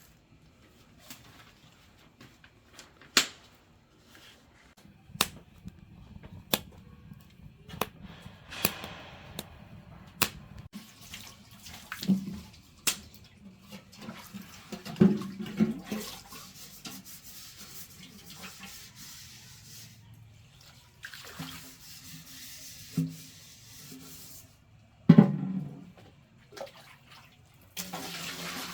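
Water splashing and running, with many sharp knocks and clatter scattered through it.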